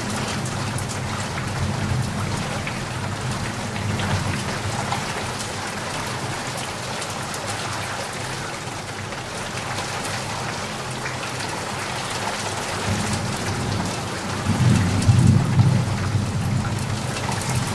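Steady rain falling, with a low rumble of thunder underneath that swells to its loudest near the end.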